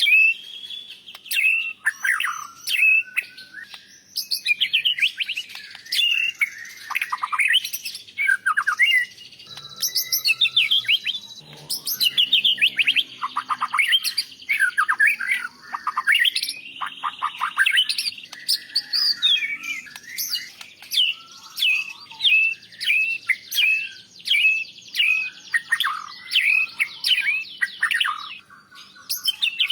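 White-rumped shama (murai batu) singing a continuous, varied song of loud whistled phrases, quick up-and-down slurs and chattering notes, with a run of repeated sharp notes, about one a second, in the last third.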